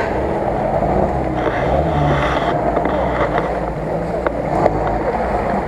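UAZ-469 off-roader's engine running steadily at low revs as the vehicle crawls through a deep mud rut.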